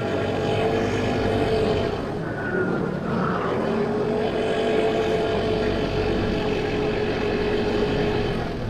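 A 50cc motorbike engine running steadily under way, with road and wind noise; the engine note holds one pitch and dips briefly about three seconds in.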